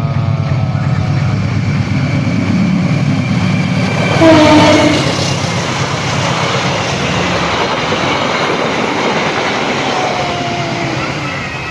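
A train passing close by with a steady rumble and wheel clatter. Its horn sounds briefly about four seconds in, the loudest moment.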